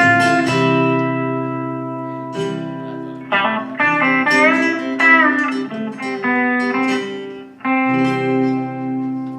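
Country band playing the instrumental close of a song: a guitar lead of sliding, bending notes over sustained chords, then a final chord struck about three-quarters of the way through and left ringing.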